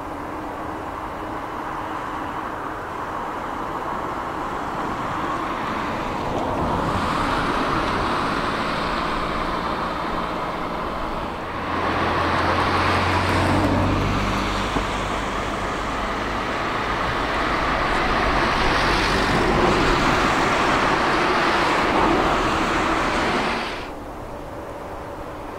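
Boeing 777 jet engines at takeoff power, a rushing noise that builds from about six seconds in and holds loud with a deep rumble, then cuts off abruptly near the end.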